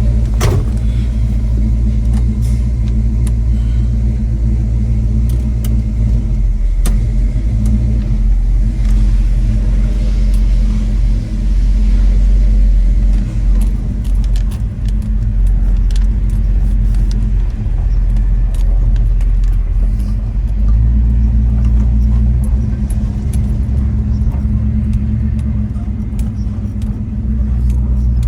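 1970 Chevrolet Chevelle SS 396 big-block V8 running steadily as the car is driven, a continuous low rumble with road noise. Small ticks and rattles come through now and then.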